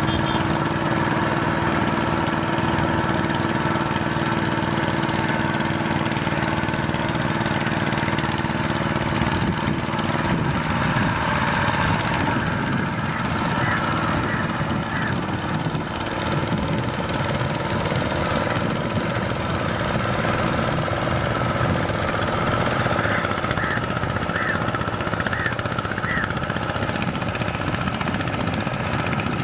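A farm machine's engine running steadily with a chugging beat. A few short high chirps rise over it near the middle and again near the end.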